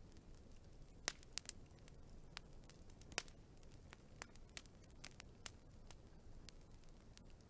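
Wood fire crackling faintly: scattered sharp pops and clicks over a low rumble, with the loudest pops about a second in and again about three seconds in.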